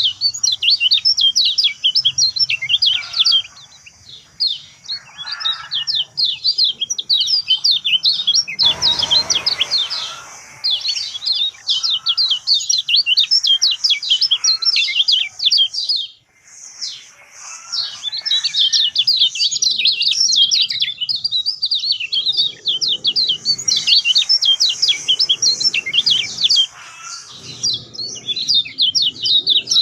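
Kecial kuning singing in long, rapid runs of short high chirping notes, with brief pauses between runs. A short burst of noise comes about nine seconds in.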